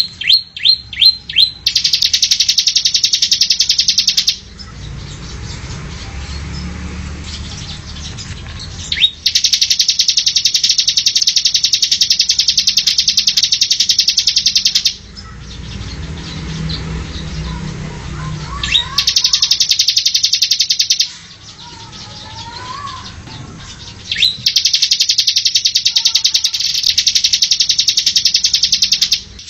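Bar-winged prinia (ciblek) singing: a few quick falling notes, then four long, very fast high trills of several seconds each, separated by short pauses.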